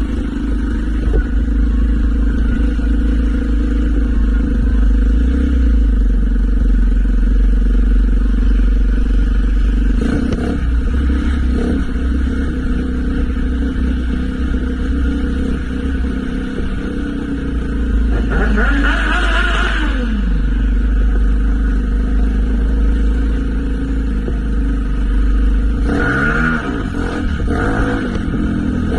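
Motorcycle engine running while riding, with heavy low wind rumble on the microphone. About two-thirds of the way in, a sound falls in pitch, and near the end the pitch shifts again.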